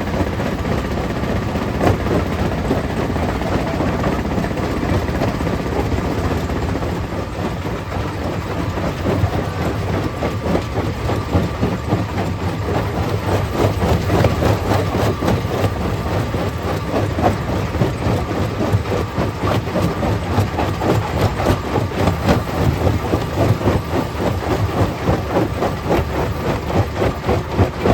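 Stone crusher plant running under load, rock rattling and crushing in the machine with a dense, rapid clatter over a steady heavy drone; the clatter grows more pronounced after the first several seconds.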